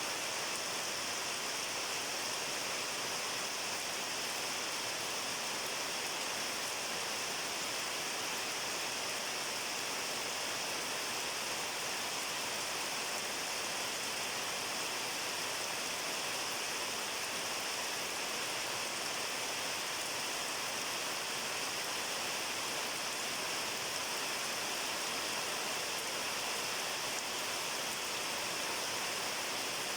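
Steady rain falling, an even, unbroken hiss of drops without pauses or distinct impacts.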